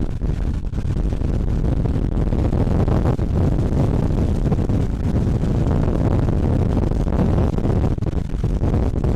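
Car driving at speed: steady, loud road and engine noise.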